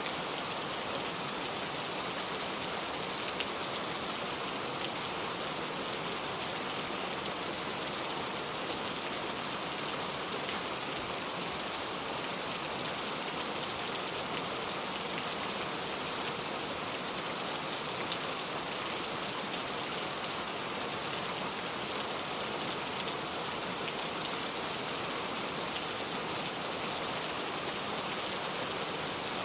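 Heavy rain pouring steadily, a dense even hiss of many drops with fine scattered patters on a surface.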